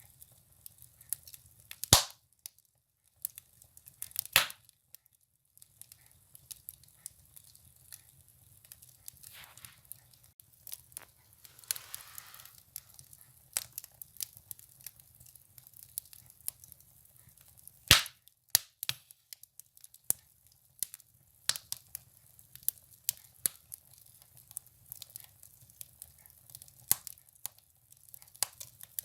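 Firewood burning in a wood stove: irregular crackling with sharp pops, three of them loud (about two seconds in, about four seconds in, and a little past halfway), and a brief hiss near the middle.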